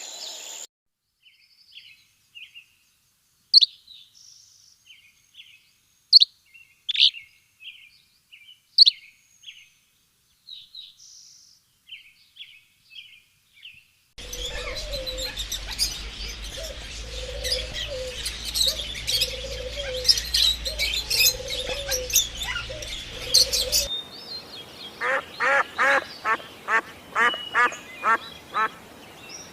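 Birds chirping in a few spliced recordings. First come scattered sharp chirps against silence. From about halfway there is a busy chorus over a low hum, with a lower call repeated about once a second, and near the end a quick series of evenly spaced chirps.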